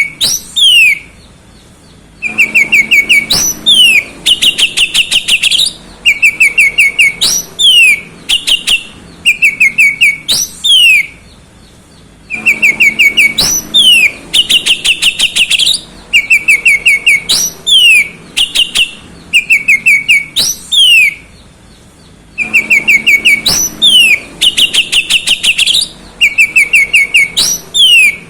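Oriental magpie-robin (kacer) singing loudly in a rapid string of short notes, downward-sliding whistles and bursts of harsh, buzzy chatter. The same song sequence repeats about every ten seconds.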